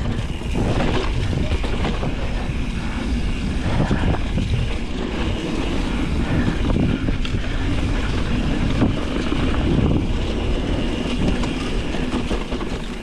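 Mountain bike rolling over a rough dirt trail: tyres rumbling and crunching on dirt and rock, with the chain and frame rattling, under a steady low rumble.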